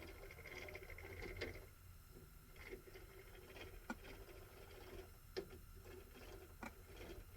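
Quiet workshop: a few faint, sharp clicks and taps of metal parts being handled at a lathe chuck, spaced a second or more apart, over a low steady hum.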